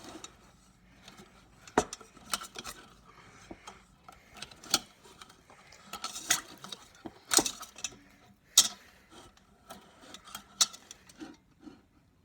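A utensil clinking and knocking irregularly against a mixing bowl while stirring cornstarch-and-water slime.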